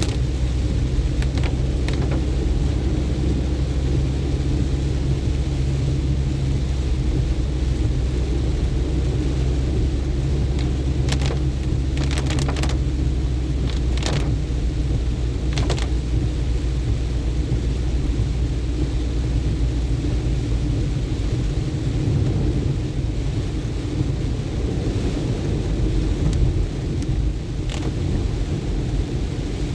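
A vehicle driving on a road in rain: a steady low rumble of engine and road noise under a hiss of rain, with a few sharp taps scattered through. The low rumble eases about two-thirds of the way through.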